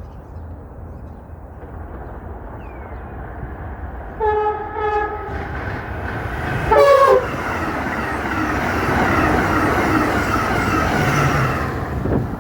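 A passing train on the Northeast Corridor sounds its horn in two short blasts and then a louder third blast that drops in pitch as it goes by. Wheel and rail noise then grows as the train passes and cuts off abruptly near the end.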